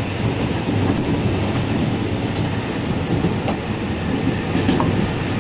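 Trans-Siberian passenger train running on the rails: a steady rumble with a few faint wheel clicks.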